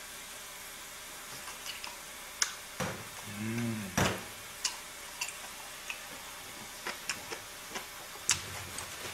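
Close-miked eating sounds of a person chewing pork belly: scattered wet mouth clicks and smacks with the odd chopstick tap, and a brief hummed "mm" about three and a half seconds in.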